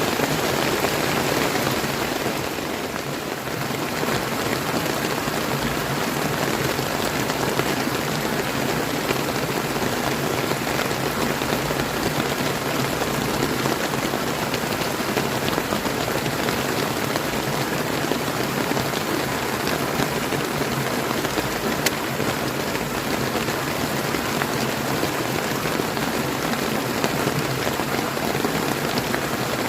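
Steady rain falling, mixed with a flowing river, as a continuous even hiss; it dips slightly for a moment a couple of seconds in.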